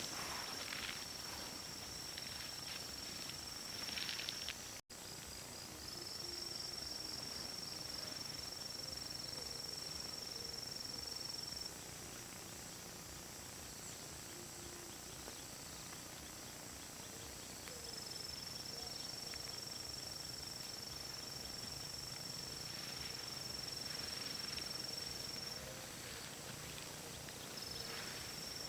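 Insect drone: one steady high-pitched tone that breaks off and starts up again several times. Soft rustling steps are heard near the start and again near the end.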